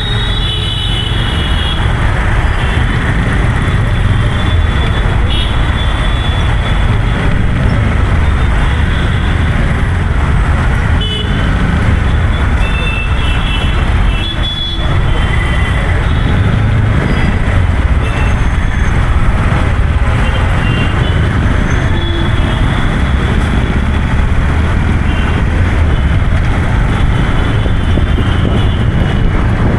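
Busy road traffic with a heavy, continuous low rumble, and short vehicle-horn toots sounding now and then.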